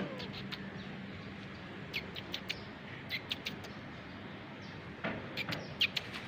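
Small birds chirping: short, sharp chirps in a few quick clusters, over a faint steady hum.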